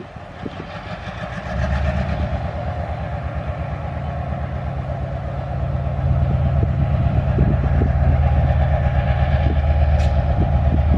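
Train rumbling with a fast, even pulsing, growing louder about two seconds in and again around six seconds.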